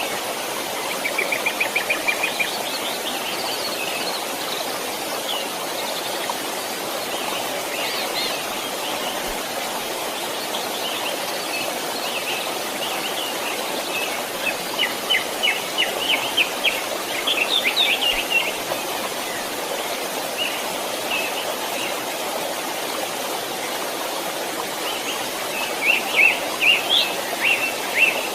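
A stream running steadily, with small birds chirping over it in quick rattling runs of notes, three bursts spread across the stretch.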